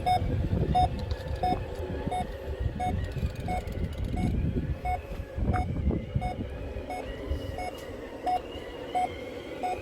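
Reversing beeper of a radio-controlled dump truck, a short beep repeating evenly about every 0.7 seconds, over a low rumbling noise.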